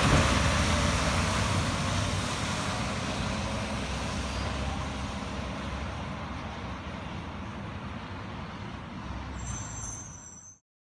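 City garbage truck running and pulling away, its engine noise fading steadily, with a brief high squeal near the end before the sound cuts off abruptly.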